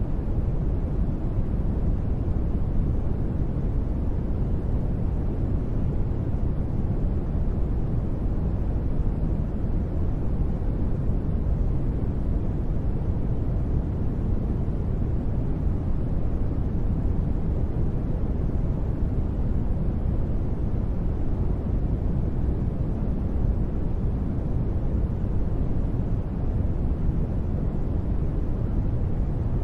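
Steady, unbroken sleep noise with no changes or sudden sounds, its energy weighted toward the low end, giving a deep, even hiss-rumble.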